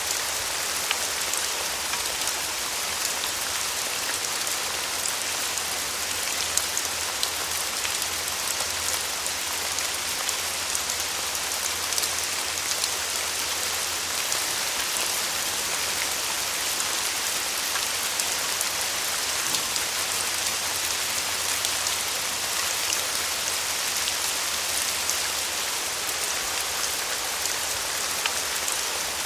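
Steady rain falling on a surface, a dense even patter of many fine drop ticks.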